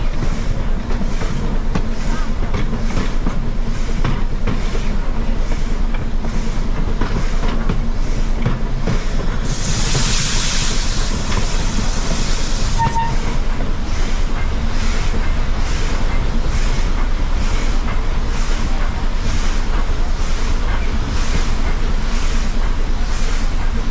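Steam-hauled passenger train running, heard from aboard: a steady rumble with a rhythmic beat about one and a half times a second. About ten seconds in there is a burst of hiss lasting about three seconds.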